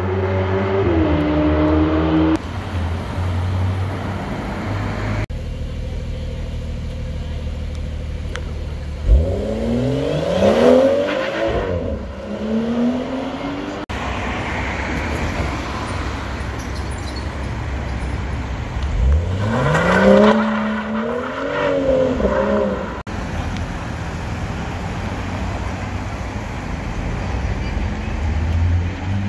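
Sports cars' engines and exhausts passing on a street, in several short cuts. Two hard accelerations, about 9 and 19 seconds in, each rise in pitch through the revs.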